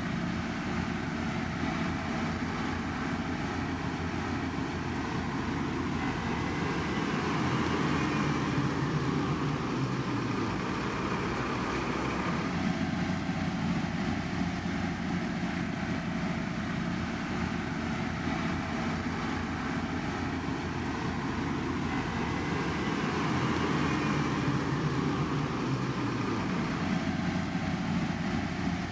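Heavy road-construction machinery engines running steadily, with a slow rise and fall in loudness.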